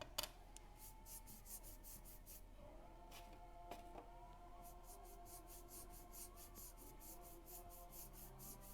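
Paintbrush strokes brushing paint over a flat craft piece: a soft, rhythmic swishing of about four to five strokes a second, pausing briefly midway.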